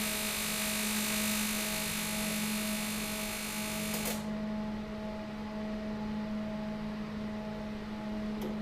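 TIG welding arc on cast aluminium: a steady hissing buzz that cuts off sharply about four seconds in as the weld stops. The TIG machine's steady hum carries on underneath.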